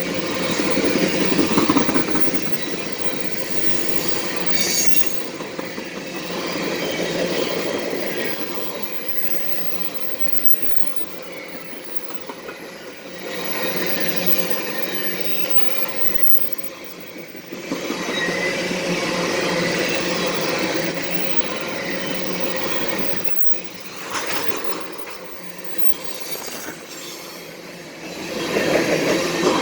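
CSX freight train's railcars rolling past, a continuous clattering rumble from the wheels on the rails that swells and fades as cars go by, with high wheel squeal at times.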